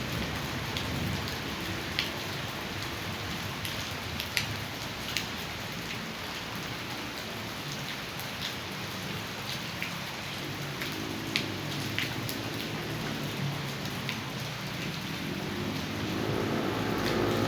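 Heavy rain falling and rainwater running, with sharp drops striking a hard surface every second or so. A low rumble swells near the end.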